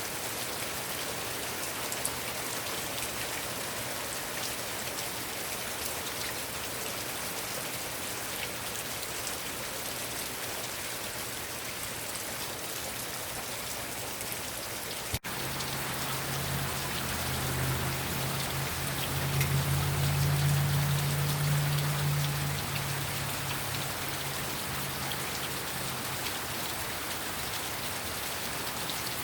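Heavy rain falling steadily, a dense hiss of drops striking surfaces. About halfway through there is a brief click, after which a low rumble swells and fades over about ten seconds beneath the rain.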